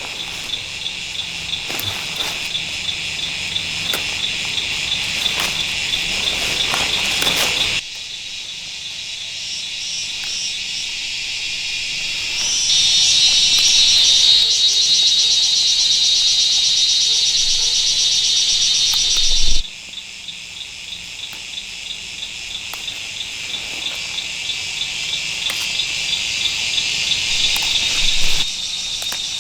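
Insects chirping in a steady high-pitched, pulsing chorus. The sound changes abruptly about eight seconds in; from about twelve seconds in, a louder, denser trill takes over until a sudden cut a few seconds before the end, after which the pulsing chorus returns.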